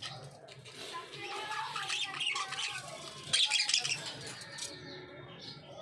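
Young budgerigars, about six weeks old, chirping and chattering, busiest through the middle and loudest a little past halfway.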